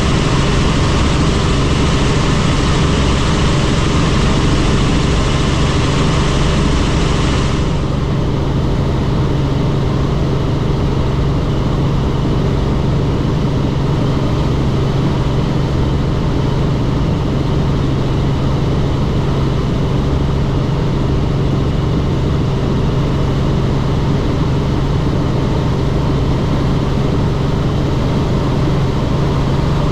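Helicopter in flight: a loud, steady drone of engine and rotor with a deep hum and a broad hiss. About eight seconds in, the higher part of the hiss drops away suddenly, leaving a duller drone.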